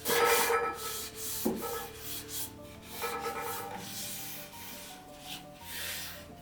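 Several rubbing, scraping strokes, the loudest right at the start, over soft background music.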